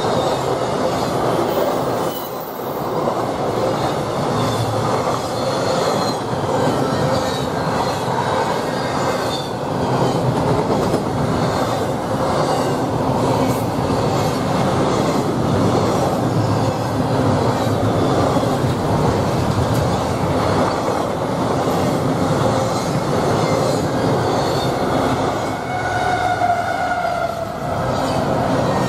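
Long intermodal freight train passing at speed close by: a steady rumble and clatter of wheels on the rails as trailer-on-flatcar and double-stack container cars go by. A brief high squeal comes near the end.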